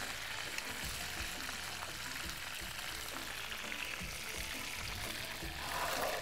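Halved chickens frying in hot oil in a frying pan, a steady sizzle as they brown, with music underneath.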